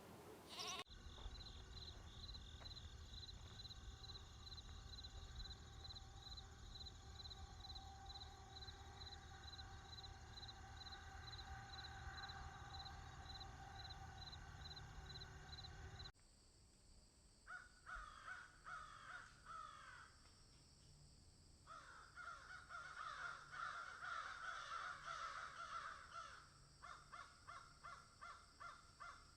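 Two sound-effect clips joined with an abrupt cut about halfway through. First comes a steady low rumble with a faint high chirping that repeats about twice a second. Then birds call in repeated bursts, ending in a quick run of short calls.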